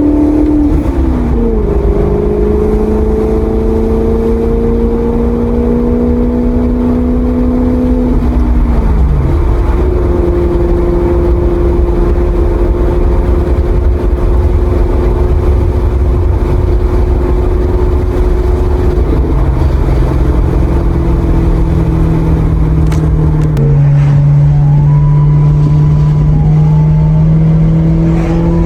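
Maserati GranTurismo's V8 engine running on the move under a loud low road rumble. The engine note holds mostly steady and drops or steps to a new pitch a few times: about a second in, around nine seconds, and twice more in the second half.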